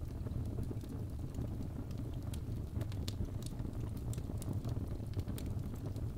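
Birch logs burning in a fireplace: a steady low rumble of flame with frequent sharp crackles and pops scattered irregularly throughout.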